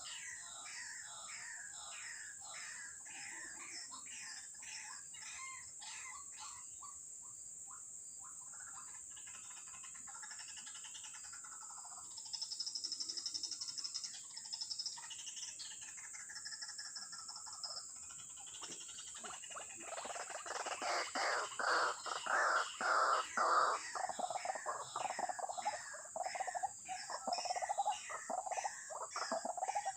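Rapid, repeated animal calls over a steady, high insect drone. The calls grow louder and denser about two-thirds of the way through.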